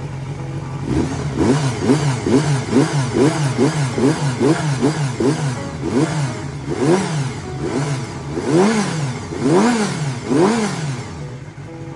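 Honda Jade 250 inline-four motorcycle engine idling, then the throttle blipped in a quick rhythm, about three revs a second, followed by slower, higher revs about once a second near the end, each dropping back toward idle.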